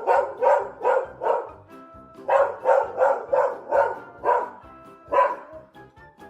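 A dog barking in quick runs of about three barks a second, then a couple of single barks near the end, with background music underneath.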